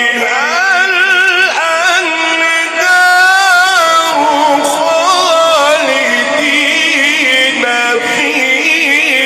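A male Quran reciter chanting a verse in long, drawn-out melodic phrases, holding notes and bending them with wavering ornaments.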